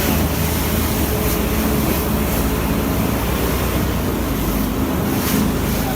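A motorboat's engine running in rough whitewater, with rushing water and wind buffeting the microphone, as the boat works against a whirlpool's current.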